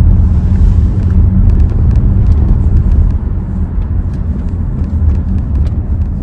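Hyundai Tucson driving at steady speed, heard from inside the cabin: a continuous low engine and exhaust drone over road rumble, easing slightly about halfway through.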